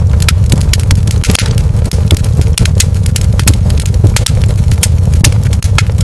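Wood fire crackling in a fireplace: frequent sharp pops and snaps, several a second, over a steady low rumble.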